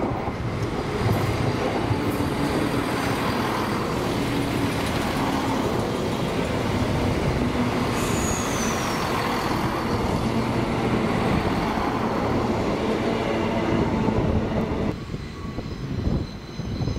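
A train running past, with a steady rumble and a short falling squeal about eight seconds in; the sound drops off abruptly about fifteen seconds in.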